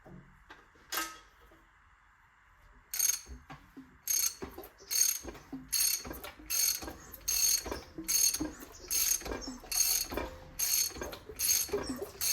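A socket ratchet clicking in repeated strokes, about two a second, as a Vauxhall C20XE engine's crankshaft is turned over by hand to take up the new timing belt's slack. The spark plugs are out, so the engine turns with no compression.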